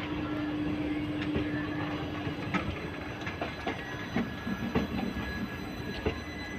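Passenger train moving along the track at a station, wheels clacking irregularly over rail joints over a steady running noise, with a steady hum for the first two seconds or so.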